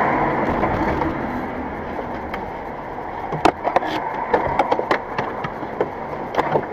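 Steady road and vehicle noise, joined about halfway through by a run of sharp, irregular knocks and clicks.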